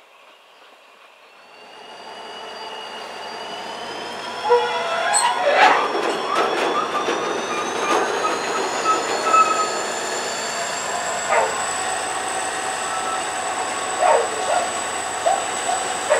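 Freight train coming by, building up over the first few seconds. High, thin wheel squeal rises slowly in pitch, and the wheels knock sharply over the rail joints, several times about five seconds in and then single knocks now and then.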